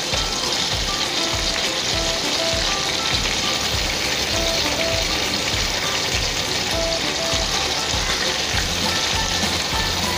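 Marinated chicken pieces deep-frying in hot coconut oil: a steady, dense sizzle as the pieces are dropped into the pan. Soft background music with a light beat plays underneath.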